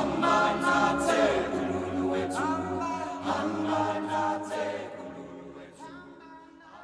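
Several voices singing together a cappella, holding long notes, fading out toward the end.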